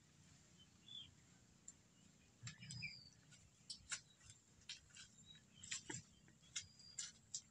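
Near silence outdoors, with a few faint, high, brief bird chirps and scattered small clicks.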